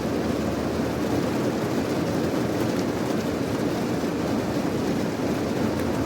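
Steady rain, an even unbroken rushing noise, heavier in the low end, with no separate drops or changes.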